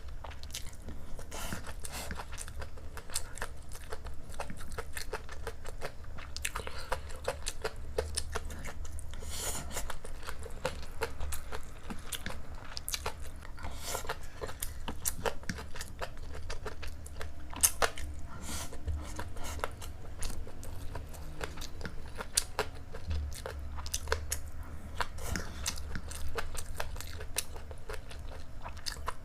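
Close-miked eating sounds: a mouthful of fried rice with preserved vegetables being chewed, heard as a steady stream of many short clicks, over a low steady hum.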